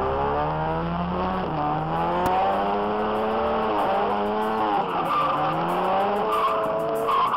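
A drift car's engine heard from on board, revving up and down over and over as the car slides, with the tires skidding on the tarmac.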